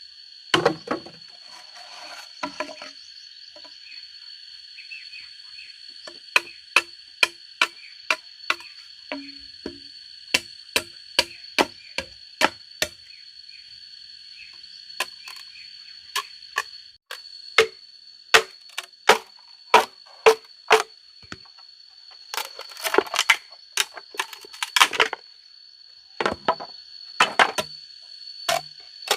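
Sharp blows of a tool on wood, about two a second, coming in runs with short pauses between them.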